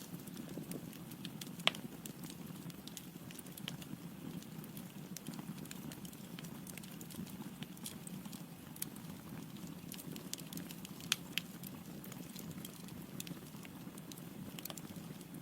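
Wood logs burning in a fireplace: a steady low rush of flame with scattered sharp crackles and pops, the loudest about two seconds in and about eleven seconds in.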